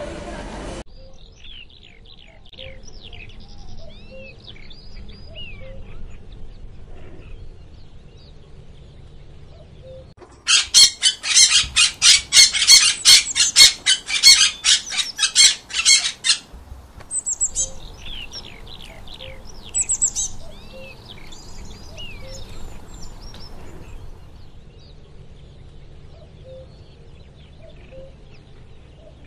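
Several wild birds chirping and twittering in short sweeping notes. About a third of the way in comes a much louder stretch of rapid harsh calls, about three or four a second, lasting about six seconds, before the softer chirping returns.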